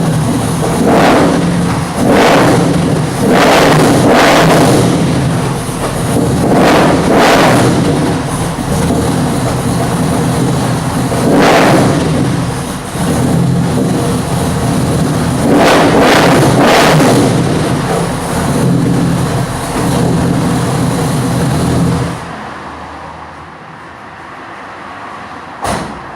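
Supercharged 383 V8 in a 1969 Camaro, running loud through a Borla exhaust at a lumpy idle and revved in short blips several times. The sound falls away much quieter near the end.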